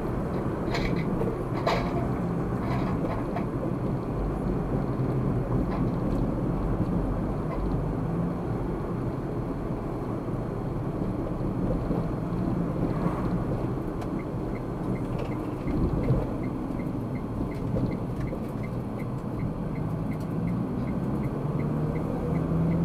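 A car driving, with a steady low rumble of engine and road noise. About two-thirds of the way through, a turn-signal indicator starts ticking about twice a second and keeps going to the end.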